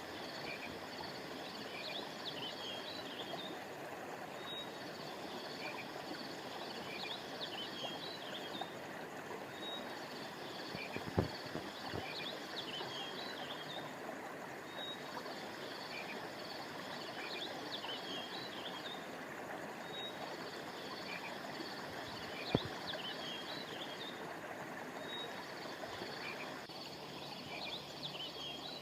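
Steady rush of a flowing stream under high, rapid chirping calls that come back in the same pattern about every five seconds. Two sharp clicks stand out, one a little before halfway and one about three-quarters through.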